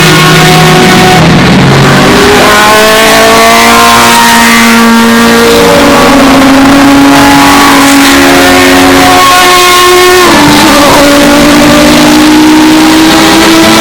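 Historic Group C prototype race car engines passing at speed, their pitch climbing over the first few seconds and dropping sharply about ten seconds in. The recording is overdriven and distorted throughout.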